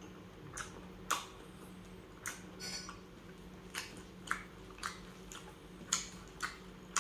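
Close-miked mouth sounds of a person eating soft, saucy tuna sisig: wet lip smacks and chewing clicks about every half second to a second, the sharpest about a second in.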